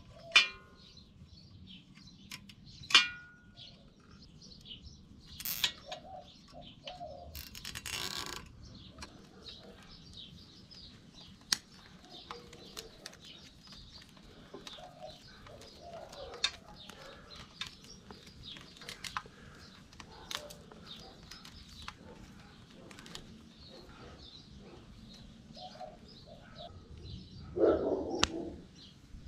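Small birds chirping steadily in the background, with a few sharp clicks early on and a brief rustle about eight seconds in from hand work on the bike.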